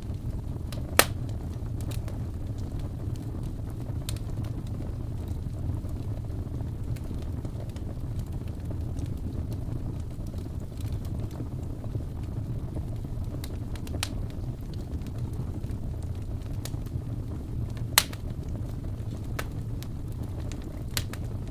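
Wood fire burning in a fireplace: a steady low rumble with scattered sharp crackles, and two loud pops, one about a second in and one late on.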